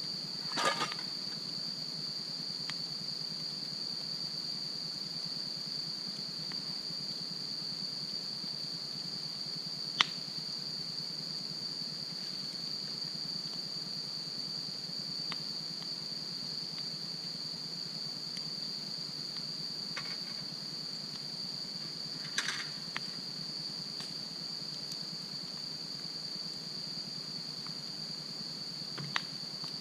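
Steady high chirring of insects, with a few sharp crackles and pops from a wood campfire, the loudest about ten seconds in.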